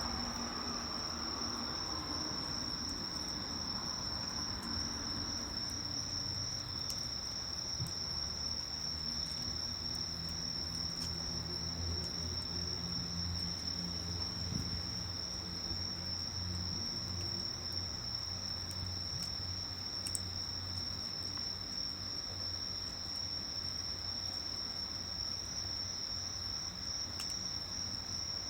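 Crickets singing a steady, unbroken high trill, with a few faint crackles from a burning wood fire and a low background rumble.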